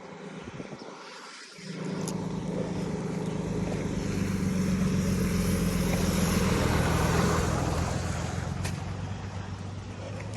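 A motor vehicle's engine hums steadily with road noise. It comes in about a second and a half in, grows louder to a peak around the middle, then fades toward the end, as a vehicle going by would.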